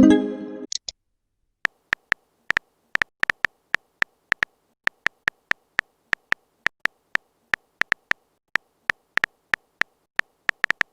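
A short electronic message tone in the first second, then a long run of quick keyboard typing clicks, about three or four taps a second, as a chat message is typed out.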